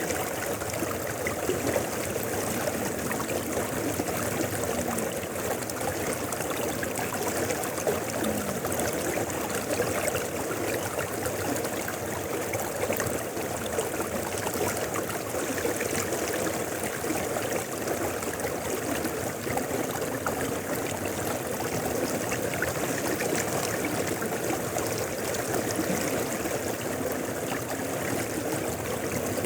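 Mountain river flowing steadily over stones, a continuous rushing with small gurgles and splashes.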